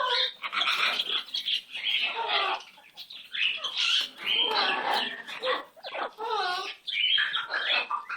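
Pet bird chattering: a run of short calls that rise and fall in pitch, with brief gaps between them.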